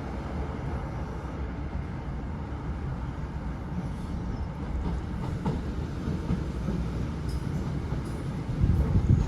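British Rail Class 156 diesel multiple unit running along the line: a steady low rumble of wheels on track with a few faint clicks, growing louder near the end.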